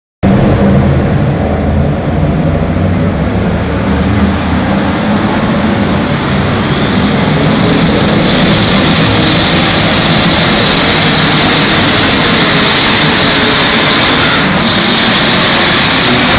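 Methanol-fuelled Case pulling tractor's engine at full throttle under load during a pull, with a high whine that climbs steeply about seven seconds in and then holds, dipping briefly near the end.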